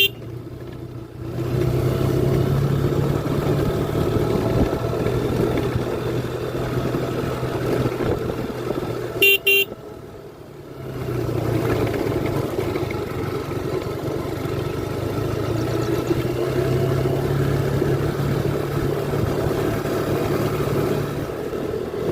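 An engine running steadily, with short horn toots right at the start and a quick double toot about nine seconds in.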